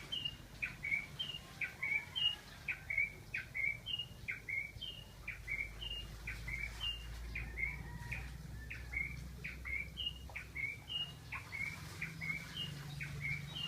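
A bird calling over and over, a short few-note phrase about twice a second, heard as "Duterte, Duterte, Duterte". A faint low hum runs underneath.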